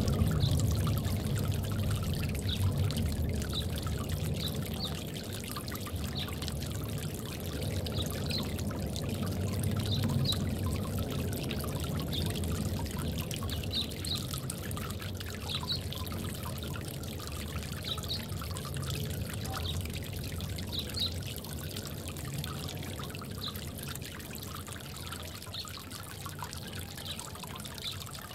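Water pouring and trickling into a bird bath, a steady flow that slowly grows quieter.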